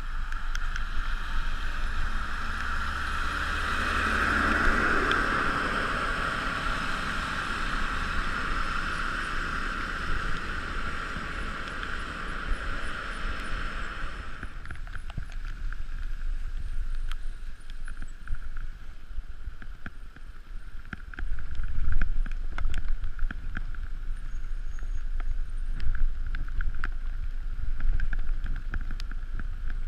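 Wind rushing over the microphone and tyre and road noise from a bicycle coasting down a paved highway, with small rattles and clicks from the bike. A steady hiss dominates at first and drops away sharply about halfway through.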